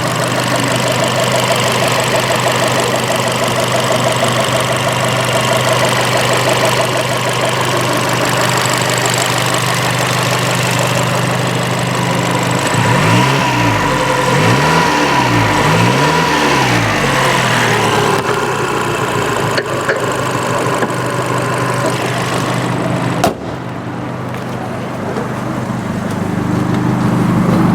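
Abarth 695 Biposto's turbocharged 1.4-litre four-cylinder idling steadily, then blipped three times in quick succession about halfway through, each rev rising and falling. A sharp click comes later, after which the engine runs a little quieter before picking up again near the end.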